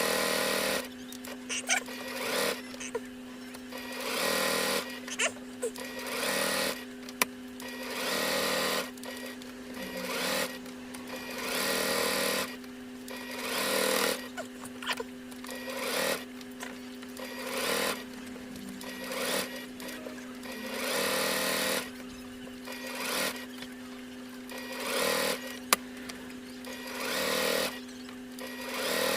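Electric sewing machine stitching around an appliqué outline in short stop-start bursts, each about a second long and roughly two seconds apart, with pauses between runs to turn the fabric.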